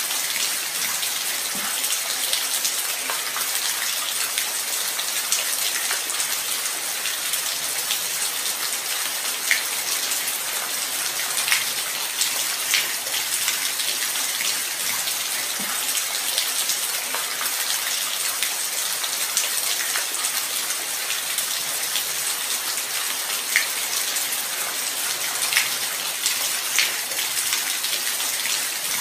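Light rain falling steadily, an even hiss with scattered louder drop splashes.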